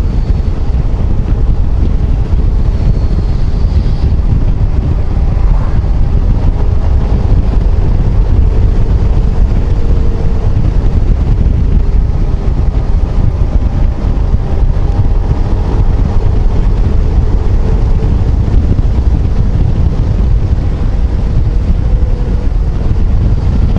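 Heavy wind buffeting on the microphone of a moving motorcycle, a steady loud rush, with the Yamaha XMAX 250 scooter's engine humming faintly underneath.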